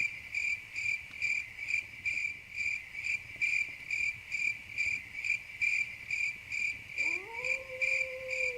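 Crickets chirping in a steady, even rhythm, a little over two chirps a second. About seven seconds in, a low whistling tone rises and then holds steady beneath them.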